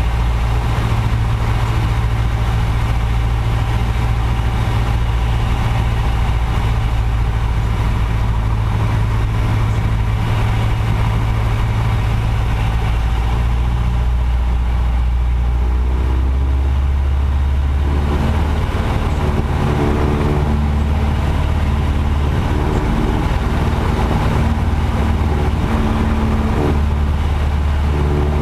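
A light aircraft's piston engine and propeller drone steadily. The engine note shifts about halfway through, a change in power setting.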